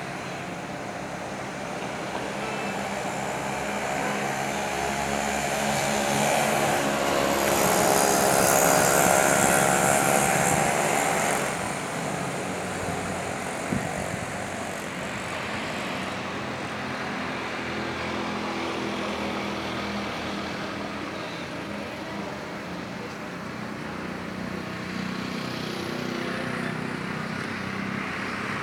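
A motor engine passing by, swelling louder for several seconds before fading back into a steady background hum; a single short click comes about halfway through.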